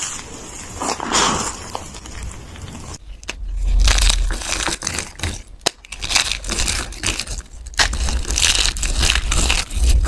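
Dried Ivory soap being crushed by hand, crumbling with dense crackling and crunching. About three seconds in the sound changes, and a low rumble runs under the crunching.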